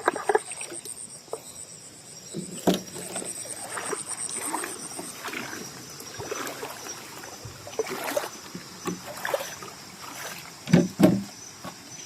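Water sloshing and splashing from movement in shallow water, with irregular splashes and two louder ones near the end. Night insects trill steadily throughout.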